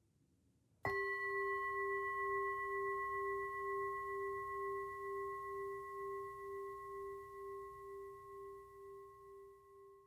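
Singing bowl struck once about a second in, ringing with a wavering, pulsing tone that fades slowly, signalling the end of the final relaxation.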